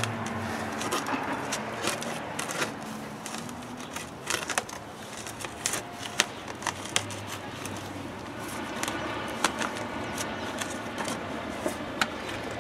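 Hand digging and scraping in dense, wet soil around buried sprinkler pipes: irregular sharp clicks and scrapes over a steady background hiss.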